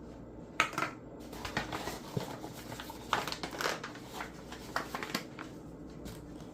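Kitchen handling noises at a counter while flour is spread for rolling out dough: irregular rustling with scattered light clicks and taps, and a sharp click about half a second in.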